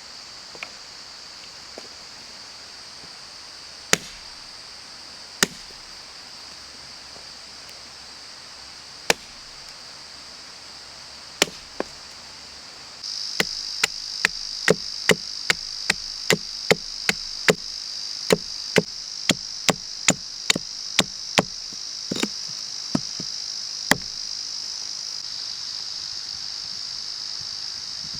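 Wood being chopped with a blade: a few spaced strikes, then a quick run of about two chops a second for roughly ten seconds. Insects, crickets by the sound tags, drone steadily and high behind it, louder from about halfway through.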